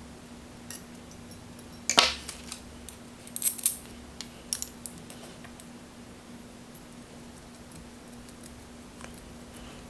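Small metal hand tools clicking and clinking against metal screws and a carbon-fibre plate as stack screws are tightened with pliers and a hex screwdriver: a sharp clink about two seconds in, a quick cluster around three and a half seconds, and a few lighter taps after. A faint steady hum sits underneath.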